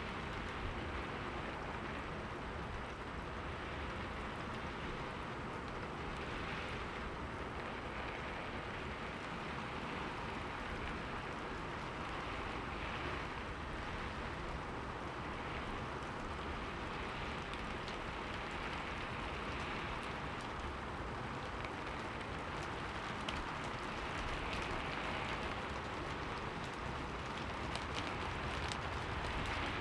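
Steady rain falling on a window: a continuous hiss with scattered faint drop ticks.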